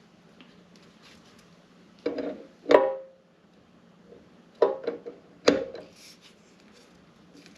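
Sharp metallic knocks and clanks from tools and metal parts at a benchtop milling machine. There are four, and the loudest, about three seconds in, rings briefly. A faint steady low hum runs underneath.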